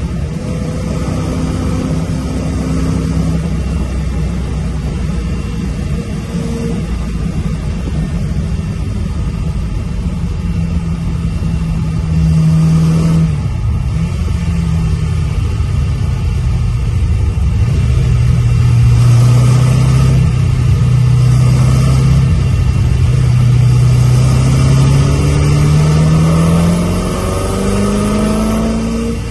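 Engine of an open Seven-style sports car heard from the cockpit while driving on a circuit. It pulls through the revs: the pitch drops at a gear change about 13 seconds in, holds, then climbs again near the end, over a steady rush of wind and road noise.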